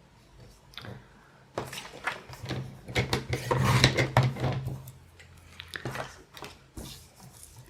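Paper and craft tools being handled on a worktable: a busy run of rustles, taps and small knocks, thickest a couple of seconds in, then thinning out.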